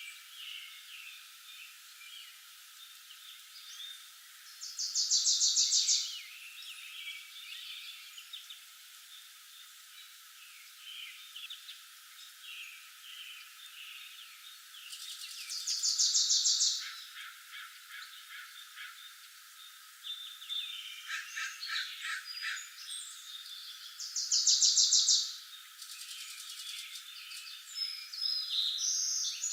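Forest birdsong: one bird sings a loud, fast trill about a second and a half long three times, roughly every ten seconds, while other birds chirp more softly in between.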